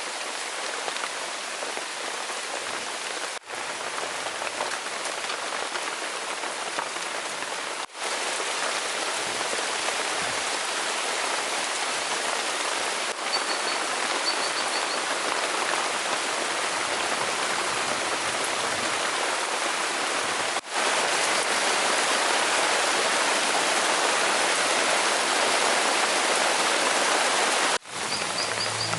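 Steady rain falling, an even hiss of drops. It breaks off for an instant four times and comes back slightly louder in the last third.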